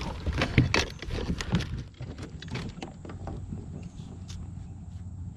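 Knocks, clicks and rustling as a small pickerel is landed and handled in a kayak, thickest in the first two seconds and sparser after.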